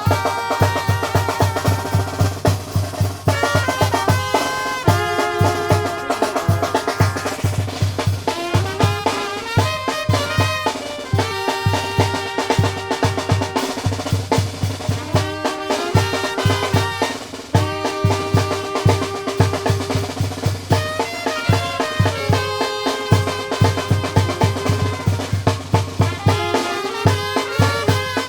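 Tamborazo band playing: brass melody lines over a steady, even beat on the tambora bass drum, with snare drum.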